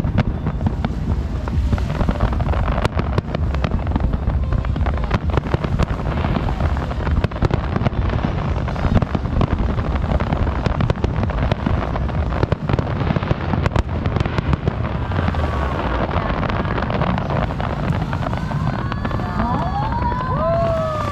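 Aerial fireworks going off in a dense run of bangs and crackles over a low rumble. From about fifteen seconds in, there are high whistles that glide up and down.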